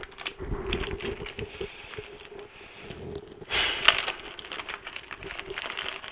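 Handling of small engine parts and tools on a workbench: scattered light clicks and taps, with a brief rustle about three and a half seconds in, over a faint steady hum.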